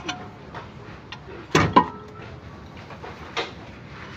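A few sharp knocks and clicks, the loudest two close together about a second and a half in, as of metal tools and parts being handled during an engine teardown.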